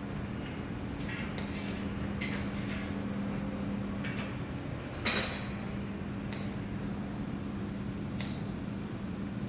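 Welding equipment running with a steady electrical hum and hiss, broken by a handful of short, sharp crackles; the loudest comes about five seconds in.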